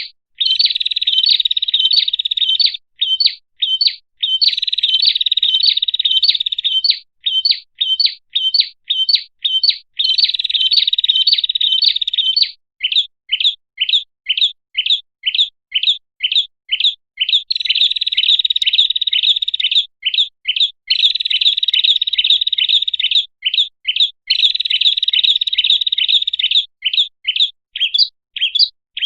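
Prenjak (prinia) song used as a bird-catching lure call: quick, sharp chirps at about three a second, broken up by buzzy trills two to three seconds long, repeating over and over.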